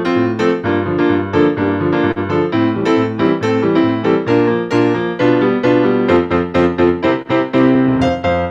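Solo piano playing a brisk postlude, a fast, even run of notes with bass and chords.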